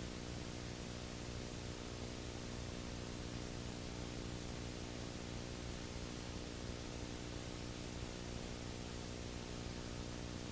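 Steady hiss with an electrical hum and buzz underneath, unchanging throughout; no other sound stands out.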